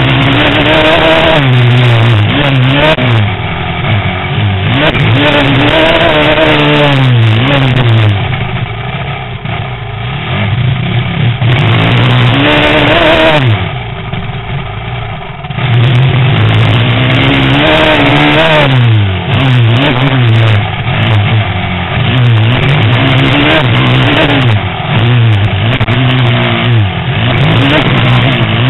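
Motocross bike engine heard from a camera mounted on the bike, revving hard, its pitch rising and falling over and over with the throttle and gear changes. The throttle is backed off twice, about eight and fourteen seconds in, before it picks up again.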